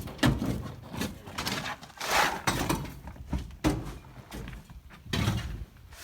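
A string of irregular knocks, thuds and scrapes from hand work with tools and materials.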